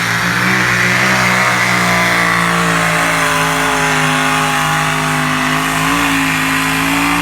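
Pulling vehicle's engine held at high revs under load during a pull. Its pitch holds steady and edges up slightly near the end.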